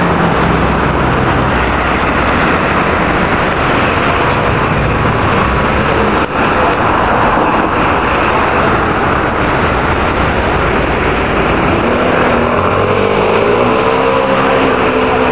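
Sports car V8 engines running loudly in the street, with one engine's pitch rising and falling in a rev near the end.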